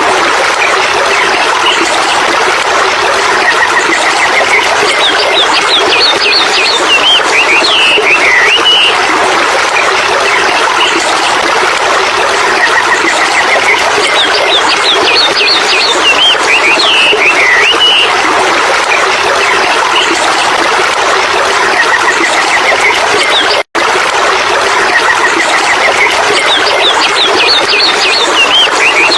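Steady rush of running water with birds chirping over it; the same short run of bird calls comes round about every ten seconds. The sound drops out for an instant about three-quarters of the way through.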